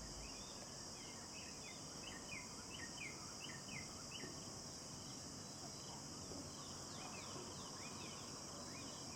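Steady high-pitched insect chorus, with a bird calling in runs of short falling notes, several a second, in the first half and again near the end.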